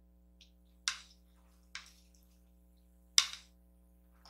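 Close-miked eating sounds: three short, sharp, wet clicks about a second apart.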